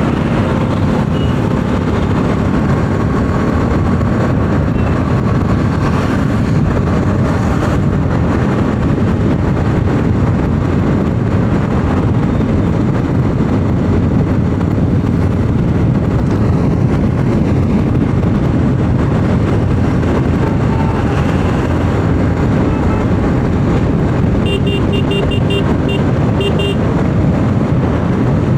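Steady wind rush on the microphone mixed with motorcycle engine and tyre noise from a Bajaj Pulsar 200 NS at highway speed. Near the end comes a quick run of short beeps.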